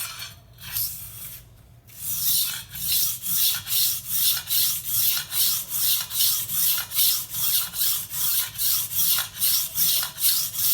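A knife blade drawn back and forth across a water-lubricated whetstone with light pressure: a rhythmic scraping rasp of about two and a half strokes a second, which settles into its steady pace about two seconds in after a few lighter scrapes.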